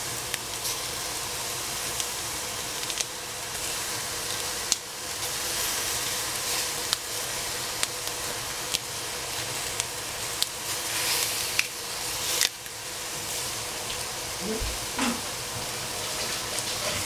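Broccoli stir-frying in a pot: a steady sizzle, with irregular sharp clicks of a spatula against the pot.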